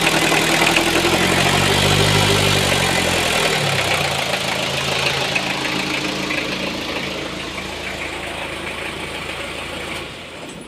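Toyota 1C-II four-cylinder diesel engine running, its pitch rising about two seconds in and dropping back sharply to a steady idle, then fading near the end. The engine makes a strange noise that the owner puts down to an aged timing or drive belt.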